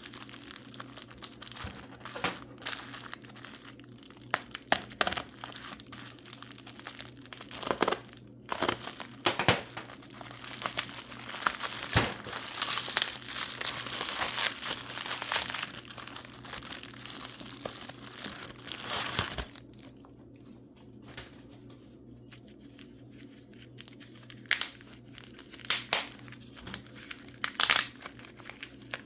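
Paper wrapping being crumpled and torn open by hand to unwrap a mineral specimen. The rustling comes in irregular spurts with sharp crackles, and goes quieter for a few seconds past the middle.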